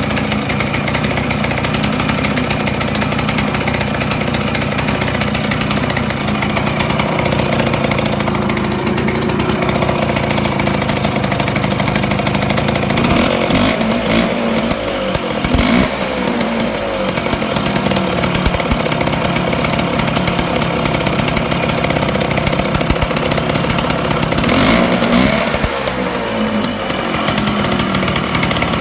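Provisionally assembled Vespa scooter engine running on a test start, held at a steady speed, then revved up and down in the middle and again near the end.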